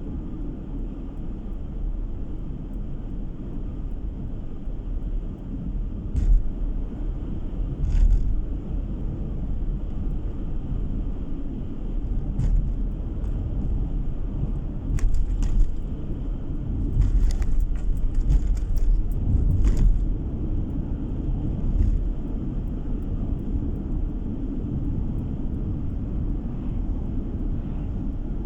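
A car driving along a road: a steady low rumble of engine and tyre noise, with a scattering of short sharp knocks and rattles, most of them bunched in the middle.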